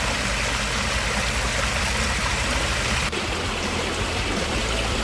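Water running steadily down the rock cascades of a backyard pitless waterfall, fed by a pump moving about 6,500 gallons an hour.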